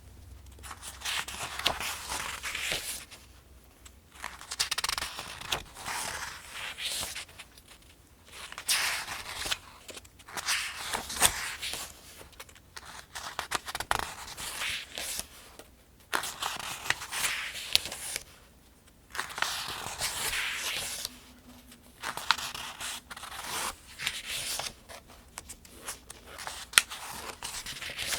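Paper pages of a Farmers' Almanac being turned by hand, a crisp rustling swish about every two to three seconds with short pauses between turns.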